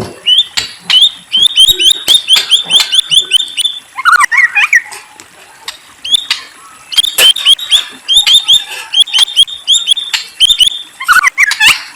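A murai songbird singing: two long runs of rapid rising whistled notes, about five a second. Rougher, lower chattering notes come between the runs about four seconds in and again near the end, with sharp clicks scattered through.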